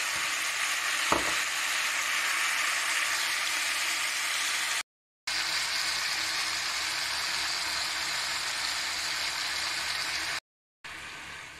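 Pork, pineapple, onion and red bell pepper sizzling steadily as they fry in a frying pan, with one short knock about a second in. The sizzle cuts out briefly twice.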